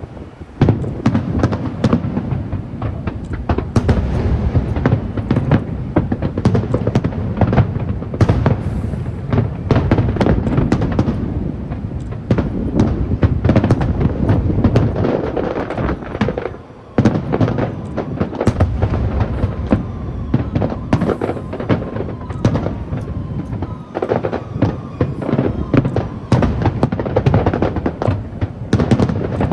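Aerial fireworks in a dense, continuous barrage of rapid bangs and crackles, with a short lull about 17 seconds in.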